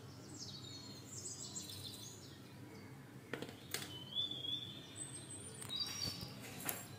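Faint bird chirps and short whistles in the background, with a few light clicks about halfway through and near the end.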